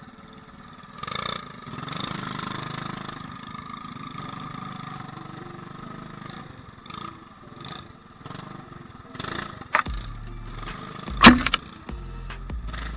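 Mini bike's small engine running steadily while riding. Near the end there is a sharp click and then a loud knock, the loudest sound here, followed by low rumbling.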